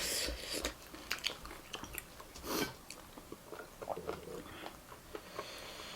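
Close-up chewing of crunchy dry beaten rice (chiura), with irregular sharp crunches and crackles and a louder crunch about two and a half seconds in. The mouthful is hard going, and the eater has just said it is hard to chew.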